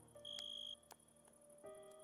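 Faint soft ambient music of long held notes, with crickets: one half-second high chirp and a continuous thin, pulsing high trill. A few small campfire crackles are also heard.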